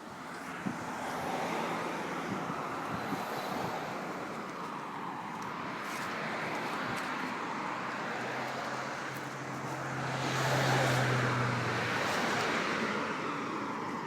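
Road traffic noise: a steady rush with a vehicle passing, loudest about ten seconds in, when its engine hum comes through.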